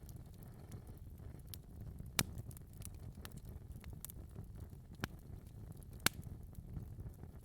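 Wood fire burning in a fireplace, with a low steady rumble of the flames and scattered sharp crackles and pops, two of them louder, about two seconds in and near six seconds.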